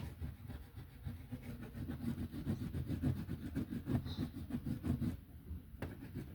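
Rapid back-and-forth coloring strokes on paper, several a second, building up from about a second in and stopping about five seconds in.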